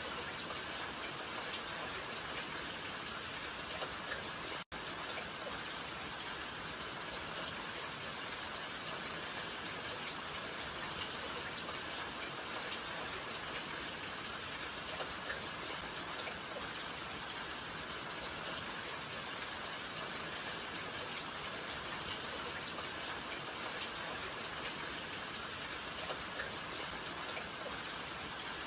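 Steady rain falling, an even dense hiss with scattered individual drops ticking through it. The sound cuts out for an instant about five seconds in.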